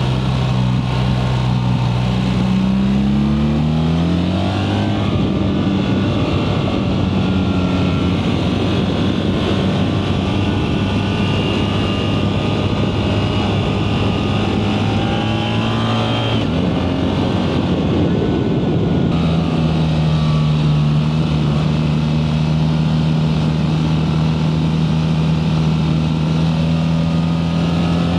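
BMW R 1300 GS boxer-twin engine pulling the bike along at speed, with wind rushing past. The engine note climbs a few seconds in, holds steady, drops lower about two-thirds of the way through, and starts to climb again right at the end.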